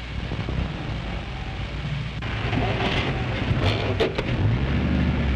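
Period motor car engines running in a rail yard: a steady low rumble with hiss over it, and an engine rising in pitch about four seconds in.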